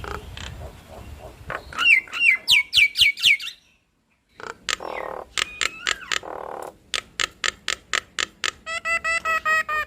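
Starlings singing: a run of quick sliding whistles, a short break, then a long series of sharp clicking notes and a fast, rattling repeated call near the end.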